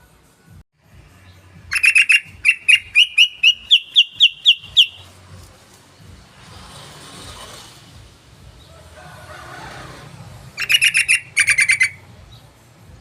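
Yellow-vented bulbul calling: a quick run of about a dozen loud, bubbly notes that rise slightly in pitch, then a shorter burst of notes near the end.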